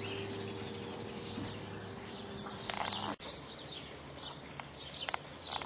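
Small birds chirping repeatedly in short, quick falling notes over a steady low hum. The hum drops away about three seconds in, and a few sharp knocks come near the end.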